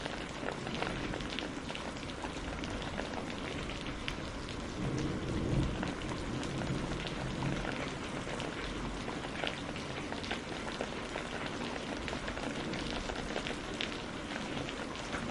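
Steady rain falling on a greenhouse roof, a dense patter with many individual drops ticking. A brief low rumble swells about five seconds in.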